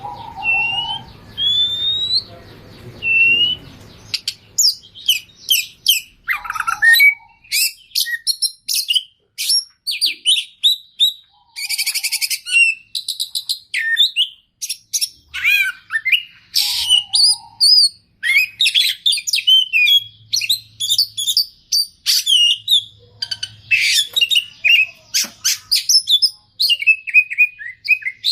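Oriental magpie-robin singing its loud, varied song with mimicked phrases: a few repeated rising whistles, then from about four seconds in a fast run of whistles, chatters and rapid trills.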